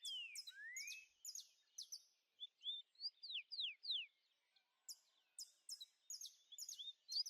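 Songbirds chirping: quick falling whistled notes repeat throughout, with bouts of short buzzy high chirps at the start and again about five seconds in.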